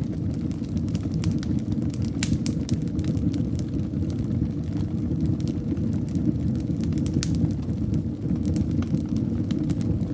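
Wood fire burning in a fireplace: a steady low rumble of flames with frequent small crackles and pops, a sharper pop about two seconds in.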